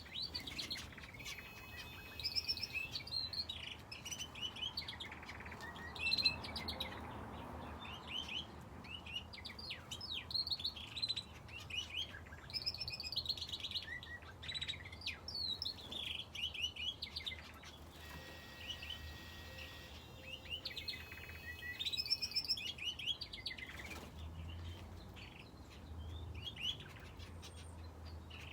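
Finches and a canary in an aviary chirping, with many short, overlapping calls throughout.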